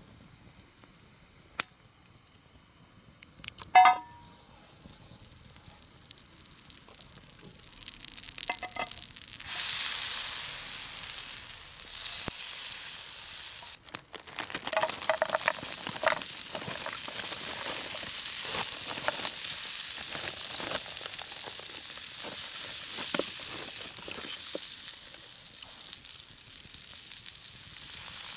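Food sizzling in a hot pan over a campfire, starting about ten seconds in and going on steadily, with a short break a few seconds later. Before it, a single sharp metallic clink about four seconds in.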